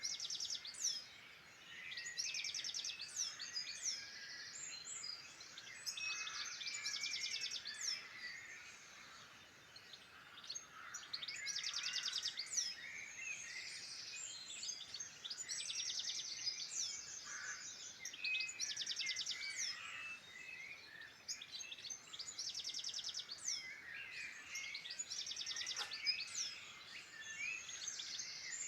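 Several wild songbirds singing at once. One bird repeats a short, fast, high trilled phrase every couple of seconds over the chirps and whistles of the others.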